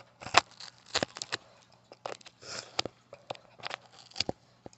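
Irregular clicks, taps and short scrapes of a cardboard package being handled.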